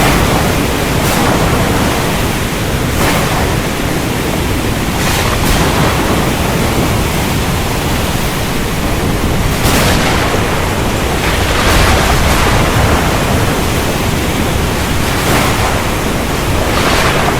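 Recorded heavy rain with thunder: a steady, loud downpour with several sharp cracks of thunder breaking through it a few seconds apart.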